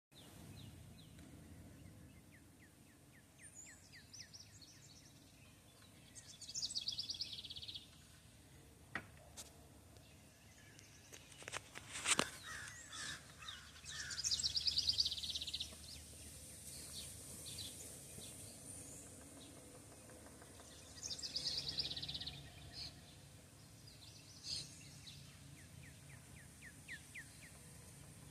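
Birds calling outdoors. A short run of quick notes comes near the start, then a high, fast trill of about a second and a half repeats roughly every seven seconds. A single sharp click comes about twelve seconds in.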